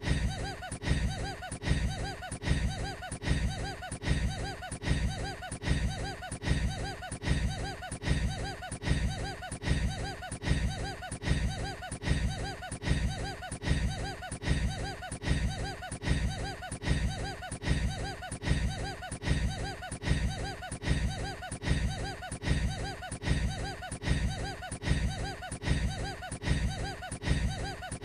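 A man's short, odd-sounding laugh played on a loop, the same snippet repeating at an even rate a little more than once a second.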